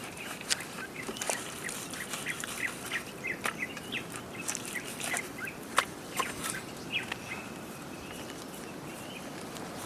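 Birds calling in short, repeated chirps, mixed with sharp clicks and knocks; the calls die away about seven seconds in.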